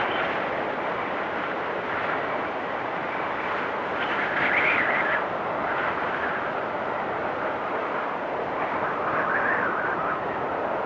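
Blizzard wind blowing steadily, swelling in gusts about four seconds in and again near the end.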